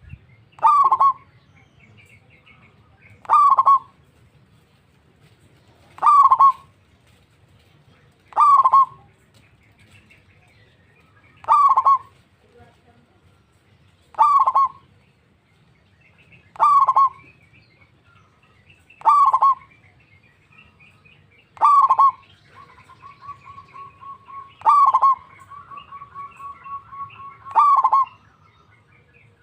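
Zebra dove (perkutut) cooing, a short phrase repeated about every two and a half seconds, eleven times. From about two-thirds of the way in, a softer, fast run of pulsing notes at a similar pitch fills the gaps between phrases.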